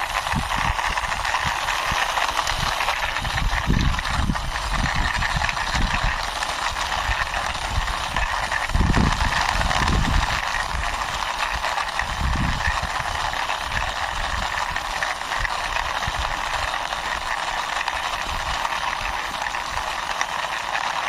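Steady rolling rasp of a toy sports car's wheels pushed along the ground by hand, with low thumps now and then.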